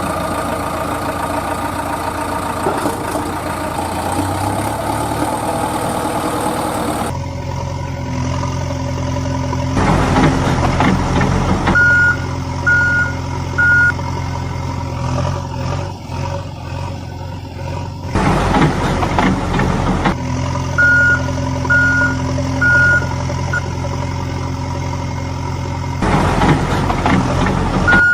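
Heavy vehicle engine running steadily, with surges of louder engine noise every several seconds. A reversing alarm beeps in runs of three, about one beep a second, through the second half.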